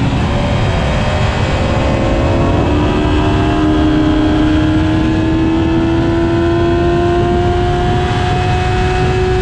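Sport motorcycle inline-four engine running at steady high revs under way, its pitch creeping slowly upward, over heavy wind noise.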